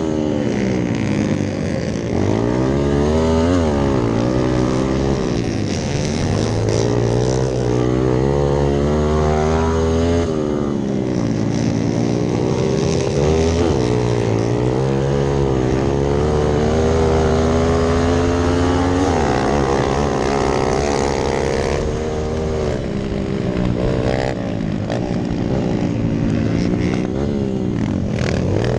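Dirt bike engine ridden hard: its pitch climbs and drops again and again as it revs up through the gears and backs off.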